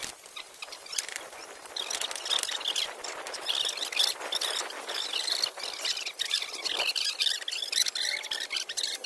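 Birds chirping steadily, with occasional knocks and scrapes of concrete blocks being handled and set in place.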